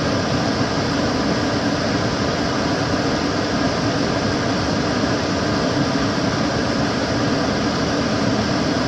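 Kitchen cooker hood extractor fan running steadily: an even rush of air with a low hum underneath.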